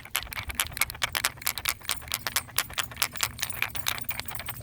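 Two sound-matching blocks with something inside, shaken together so their contents rattle in quick, irregular clicks.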